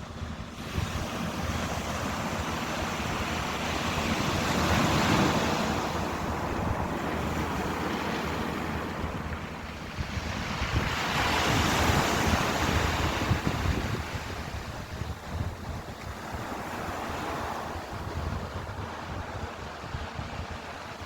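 Ocean surf washing in, swelling and falling three times, with low wind rumble on the microphone.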